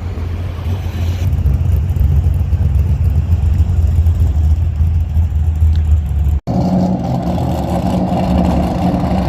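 A car engine with a deep, loud rumble as the car drives by. About six and a half seconds in, the sound cuts off abruptly and another car's engine takes over, pitched higher.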